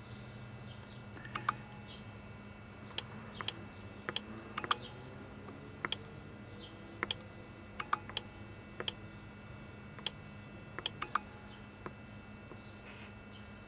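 Scattered light clicks and taps at an irregular pace, about one or two a second, over a faint steady hum.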